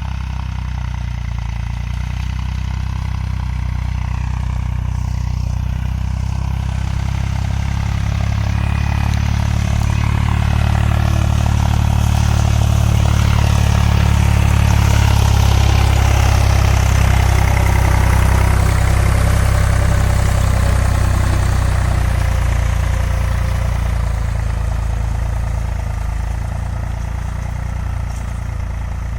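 Tractor diesel engine running steadily. It grows louder toward the middle and then eases off somewhat.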